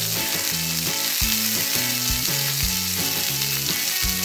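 Steady frying sizzle, a sound effect for food frying in a pan, over background music with a stepping bass line and a regular beat.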